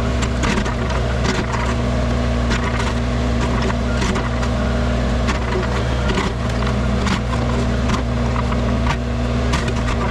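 Wacker Neuson mini excavator's engine running steadily under load, with irregular cracking and crunching as the bucket breaks up and scrapes material.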